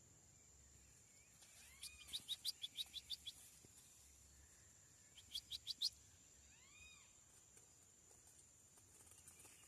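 Songbird, likely a white-bellied seedeater (chorão), giving two bursts of rapid sharp chipping notes, about four a second, the first burst of about ten notes and the second of four, with a few soft arched whistles between. A steady high insect-like trill runs underneath.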